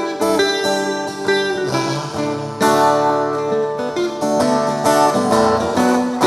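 Guitar-led band music: an instrumental passage of changing melodic notes over a steady bass line, with no singing.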